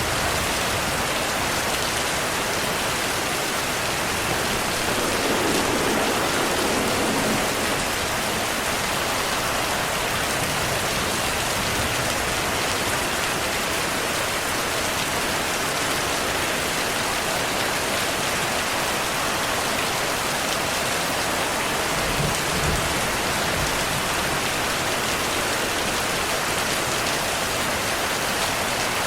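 Heavy rain falling steadily on surfaces, a dense even hiss, with two brief low rumbles of distant thunder, about five seconds in and again past twenty seconds.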